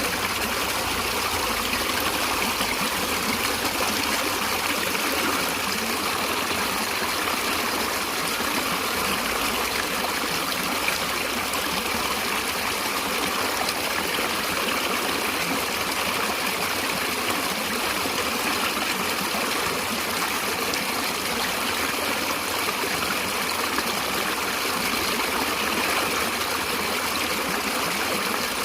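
A natural stream flowing and trickling steadily, an even rushing of water with no breaks.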